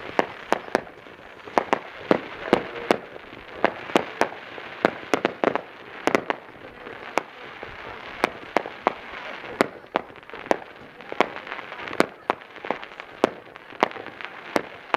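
Fireworks display: a rapid, irregular string of sharp bangs from bursting fireworks, about two a second, over a steady background rush.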